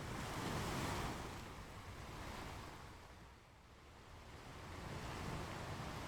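Ocean waves on a beach: one wave surges and washes up about a second in, dies away, and the next swell builds near the end.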